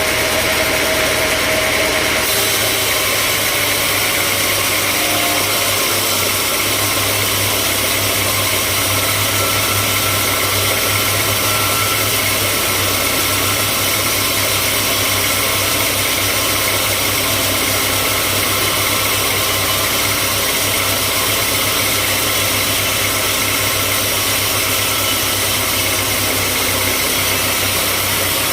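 Sawmill machinery running steadily: a loud, even engine-driven noise with a low hum throughout.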